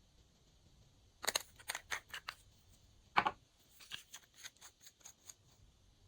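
Glossy slime being kneaded and pressed by hand, giving a quick run of sharp clicks and pops, with the loudest about three seconds in.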